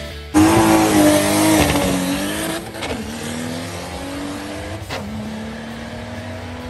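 A car accelerating hard down a drag strip, its engine revving up through the gears: the pitch drops at two upshifts, about three and five seconds in, and climbs again after each.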